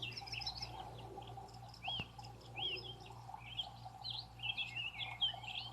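Small birds chirping, many short rising-and-falling calls one after another, over a low steady hum.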